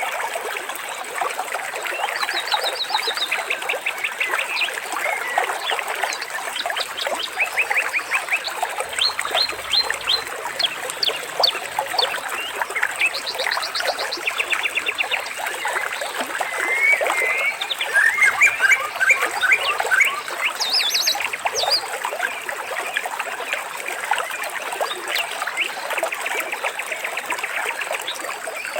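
Many birds chirping and trilling over steadily trickling water, with a dense overlap of short, rapid, repeated calls.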